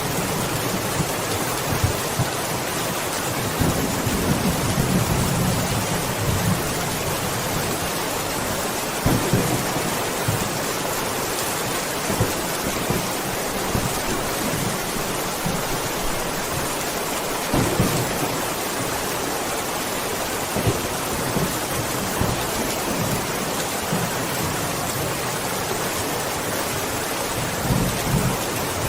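Steady rain with several low rumbles of thunder, the longest about four seconds in, others about nine and eighteen seconds in and one near the end.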